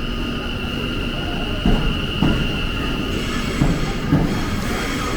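West Midlands Railway Class 730 electric multiple unit moving slowly through the platform. Its wheels give a steady high squeal that fades about three seconds in, over a low rumble, with four thuds as the wheels cross rail joints.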